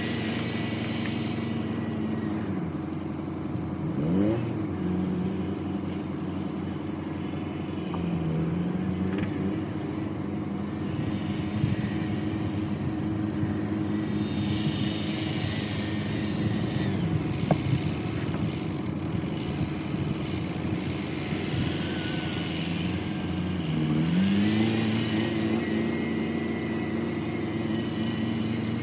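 Diesel engine running under varying throttle. Its speed drops and rises several times, and a high whine comes in while it runs at its higher speed.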